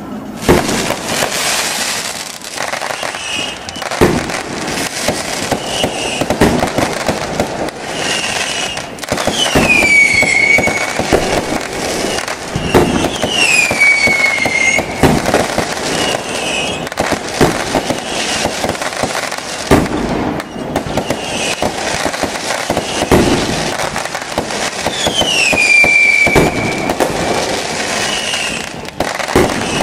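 Fireworks display: continuous crackling with sharp bangs every few seconds. A falling whistle sounds three times.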